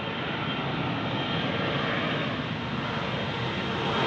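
Jet airliner engines running with a steady whine, the noise growing gradually louder.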